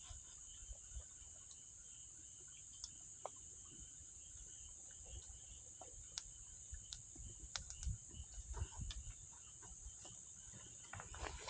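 Wood campfire crackling with scattered sharp pops, over a faint steady high-pitched insect chorus.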